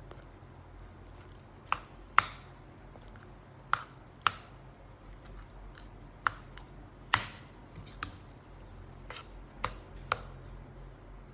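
About ten sharp clicks and snips of utensils handling food, spaced irregularly and often coming in pairs about half a second apart, over a low steady hum.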